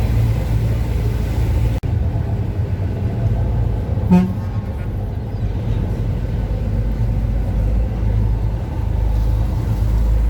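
Strong wind buffeting the microphone on a moving boat, a steady low rumble, with one short horn toot about four seconds in.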